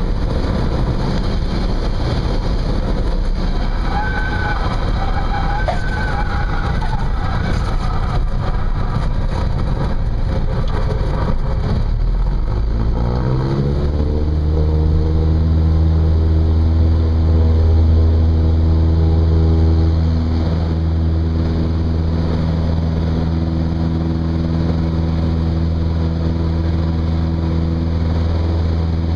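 Cessna 172's piston engine and propeller running against rushing air, with a wavering high tone for a few seconds about four seconds in. About twelve seconds in, the engine note climbs quickly as power comes up and then holds a loud, steady drone, as when full throttle is applied for the takeoff half of a touch-and-go.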